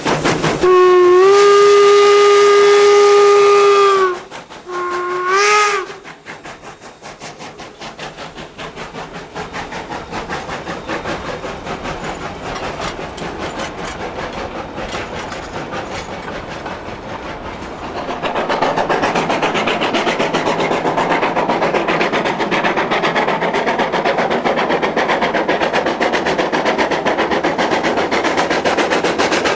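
Steam whistle of 2-8-0 steam locomotive #111 blowing one long blast and then a short one. This is followed by the locomotive's rapid, steady exhaust beats, which grow louder about eighteen seconds in.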